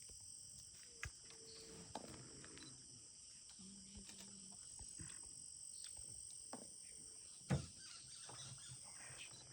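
Steady high-pitched insect chorus, with a few faint knocks and one sharper click about seven and a half seconds in.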